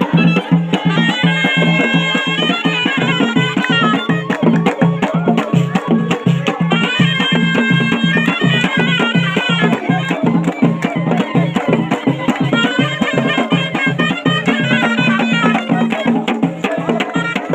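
Moroccan ghaita, a shrill double-reed shawm, playing a folk melody over a low drum beating steadily about three times a second.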